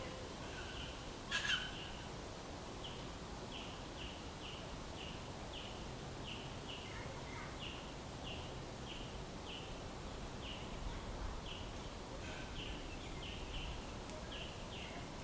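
A bird calling over and over with short, high, falling notes, about two a second, over a faint outdoor background. About a second and a half in there is a single brief, louder call.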